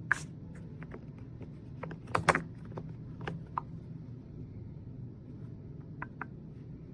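Scattered clicks and knocks of small hard objects being handled, the loudest a quick double knock about two seconds in, over a steady low hum.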